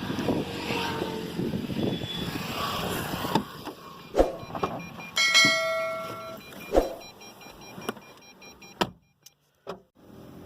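Handling sounds in and around a car: rustling, then several sharp knocks and clicks, with one steady electronic beep about a second long midway through.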